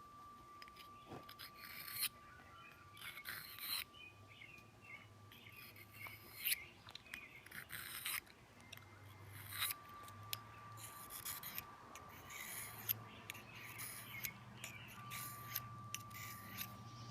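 Multi-tool knife blade being sharpened, drawn across a knife sharpener in a series of irregular scraping strokes.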